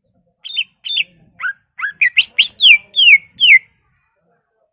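Green leafbird (cucak ijo) singing one phrase of clear whistles: a few short separate notes, then a quickening run of downward-slurred whistles that stops abruptly.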